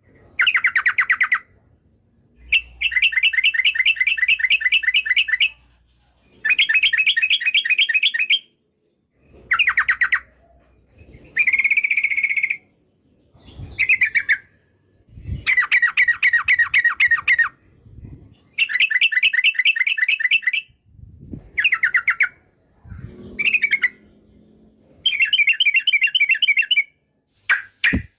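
Yellow-vented bulbul (trucukan) singing in a series of rapid, chattering bursts of repeated notes. Each burst lasts one to three seconds, with short pauses between them.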